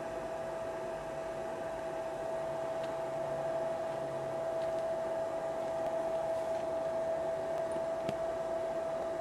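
Electric air blower on a backyard aluminium-melting furnace running with a steady whine and a rush of air, growing slightly louder partway through as the fire is fanned.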